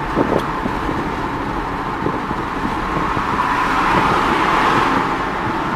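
Aston Martin's 6-litre V12 running as the car drives, heard from inside the cabin mixed with road noise, swelling a little about three to four seconds in.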